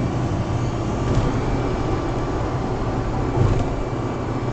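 Steady low rumble of vehicle noise with a low hum, rising a little about three and a half seconds in.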